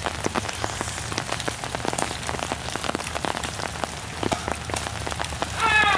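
Rain falling on a fabric umbrella overhead: a dense, irregular scatter of drop taps.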